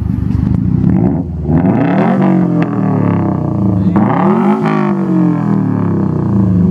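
Car engine idling, then revved twice, the pitch climbing and falling back each time; the exhaust is called 'clean'.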